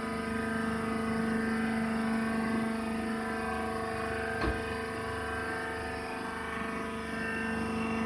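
Hydraulic cotton-seed baler running: a steady machine hum from its motor and pump, with a single knock about four and a half seconds in.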